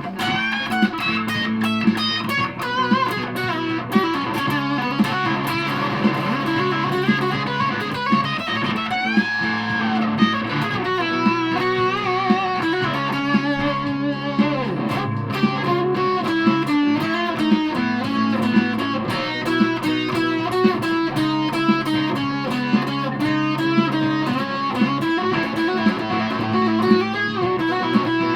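Aria Pro II Thor Sound electric guitar played through a fuzz pedal: a continuous distorted riff of sustained low chords with picked notes over them.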